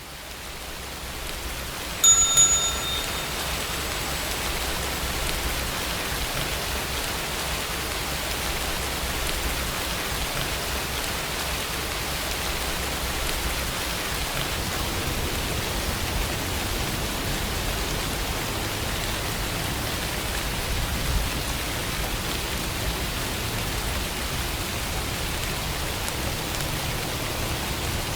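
Steady rainfall fading in at the start and then holding even. About two seconds in, a short bright bell chime rings once.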